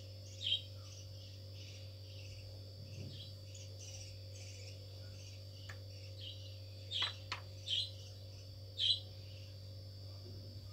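A bird chirping in short, high calls, several in quick succession past the middle, over a steady low hum, with a couple of faint taps.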